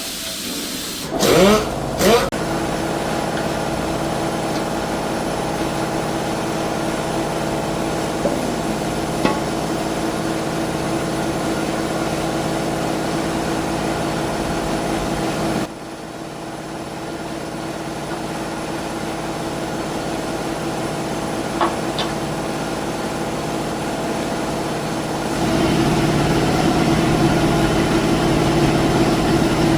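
Steady mechanical hum of a motor or engine running, with two short loud bursts rising in pitch about a second and two seconds in. The hum drops off abruptly about halfway, then builds back and grows louder near the end.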